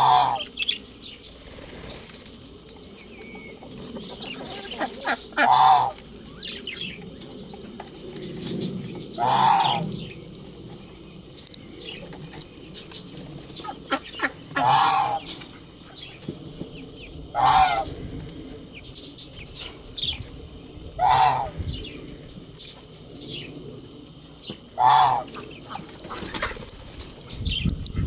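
Aviary birds: a loud, short call repeats about seven times, every three to five seconds, over lighter chirping and wing flutters from budgerigars.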